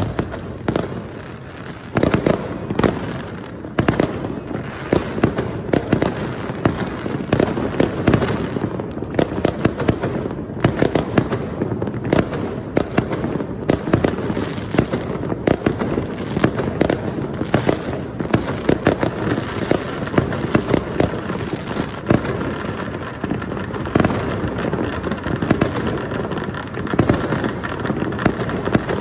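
Fireworks and firecrackers going off continuously: a dense, unbroken crackle of many overlapping bangs, with louder single reports standing out every second or so.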